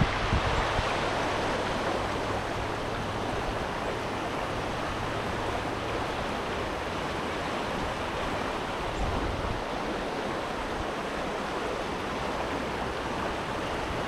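A small creek's water running and babbling over rocks, a steady rushing hiss.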